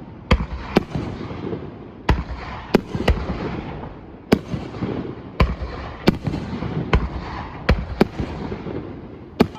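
Fireworks going off, about a dozen sharp bangs at irregular intervals.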